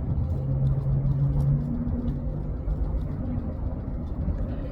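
Low, steady engine rumble with a low hum that is strongest for the first second and a half, then fades.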